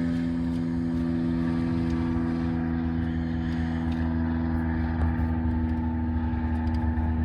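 Steady hum of a motor or engine running at a constant speed, with a few faint clicks over it.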